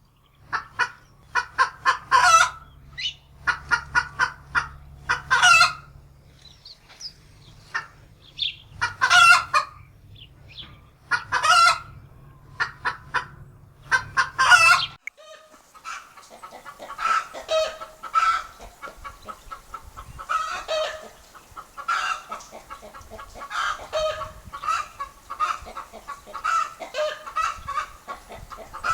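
Hens clucking: loud, separate cackling calls over a low hum, then about halfway through a switch to a denser run of quicker, quieter clucks.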